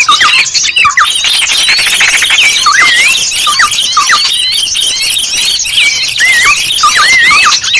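Small birds calling densely over one another, many quick chirps and swooping whistles dipping and rising, with a rapid twitter about a second in. This is a bird-lure (pikat) call recording meant to draw in small birds.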